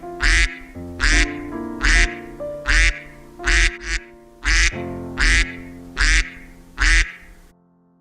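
Duck quacking over and over, about one quack a second, over light background music. Both stop shortly before the end.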